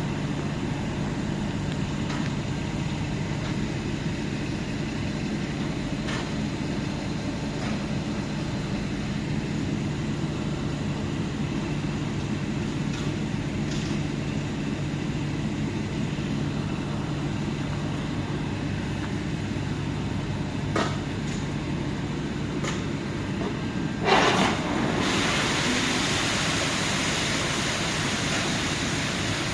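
Hot oil boiler plant running with a steady mechanical hum and a few faint clicks. About 24 seconds in, a sharp thump, then a loud steady hiss sets in and continues.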